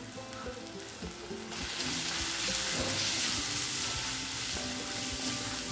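Sliced onions and spice powders sizzling in hot oil in a cast-iron kadai while being sautéed, the sizzle growing louder about one and a half seconds in as the mixture is stirred with a wooden spatula.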